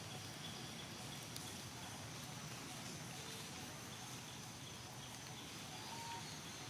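Steady outdoor forest ambience: a continuous faint high-pitched insect drone with a few short, faint bird chirps.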